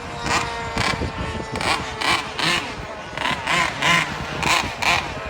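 Two-stroke gas engine of a large-scale RC car revving in short blips, about two a second, each rising and falling in pitch.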